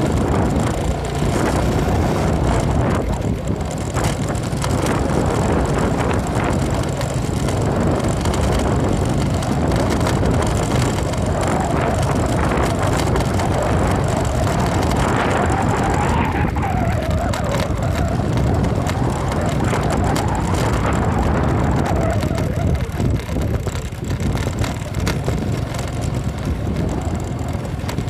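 Motorcycle engine running under way, mixed with wind and road noise. The engine pitch rises and falls several times around the middle as the throttle changes.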